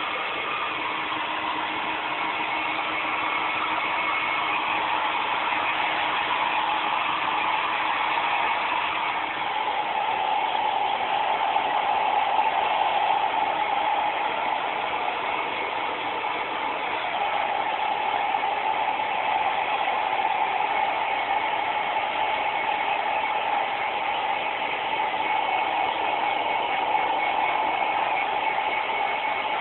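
Hair dryer blowing steadily, a continuous rushing hum with a steady whine in it; its tone shifts a little about ten seconds in.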